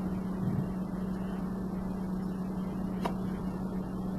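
A steady low electrical-sounding hum over a background hiss, with a single sharp click about three seconds in.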